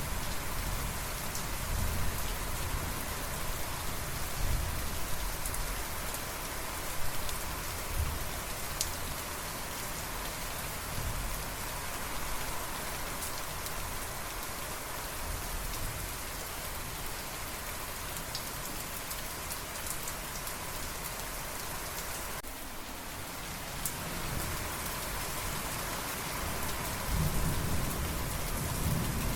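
Steady rain falling, with low rumbles of thunder, strongest near the start and again near the end.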